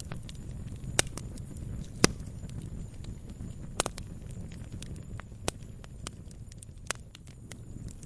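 Wood campfire crackling: irregular sharp pops and snaps, a few louder ones about one and two seconds in, over a steady low rumble of the burning fire.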